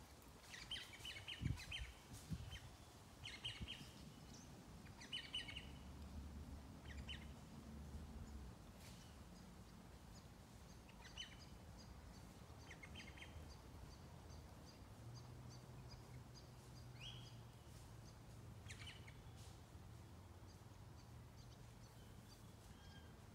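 Faint bird calls: short clusters of high chirps every second or two, thinning out in the second half, over a faint low hum.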